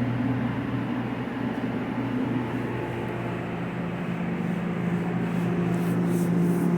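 Steady machine hum, like a motor or fan running. Its pitch shifts and it grows a little louder about five seconds in, with a few short hissing strokes near the end.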